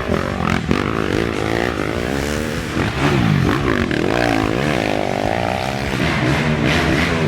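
Racing ATV engines revving hard, their pitch repeatedly rising and falling as the riders work the throttle and shift.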